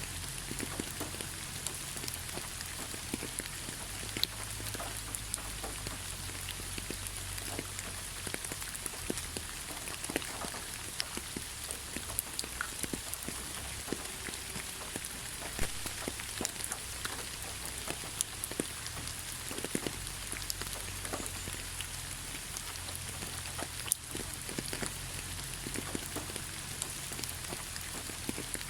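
Heavy rain falling steadily: a dense, even hiss with many sharp individual drop hits scattered through it and a low rumble underneath.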